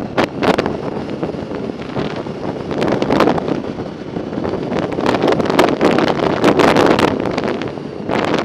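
Wind buffeting the microphone while cycling, rising and falling in gusts.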